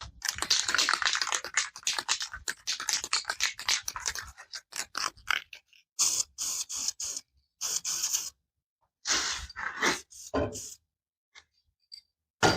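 Rough scraping strokes on a hard surface, dense and continuous for about four seconds, then coming in short bursts with pauses, ending on one sharp knock.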